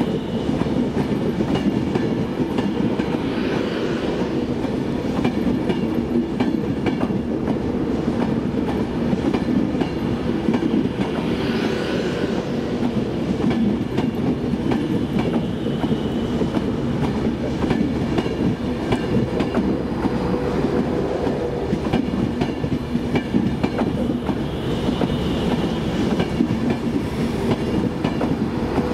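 A train running through the station, its wheels clattering over the rail joints over a steady low rumble.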